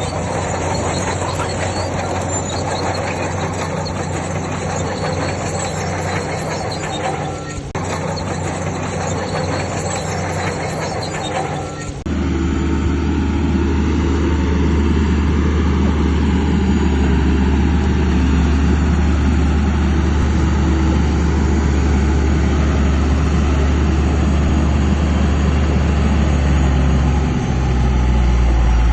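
Heavy diesel earthmoving machinery at work: an engine running under a clanking, squealing clatter like steel crawler tracks, then, after an abrupt change about twelve seconds in, a steady heavy diesel engine running louder.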